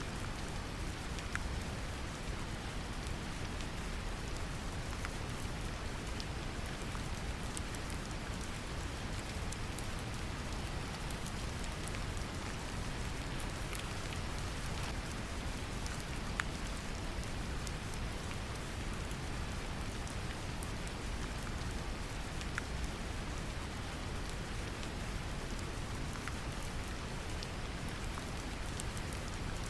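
Steady brown noise, deep and even, mixed with the patter of gentle rain. A few sharp single-drop ticks stand out from the wash.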